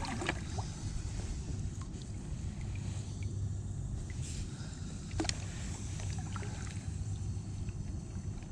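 Choppy sea water lapping against a kayak hull over a steady low rumble, with a few short sharp clicks.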